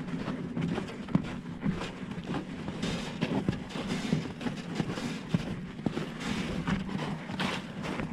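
Footsteps crunching in snow and an empty wheelbarrow being pushed, with irregular knocks and rattles from its tray and wheel, over a steady low hum.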